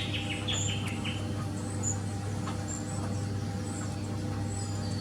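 Small birds calling: a quick run of falling notes near the start, then thin, high chirps about once a second.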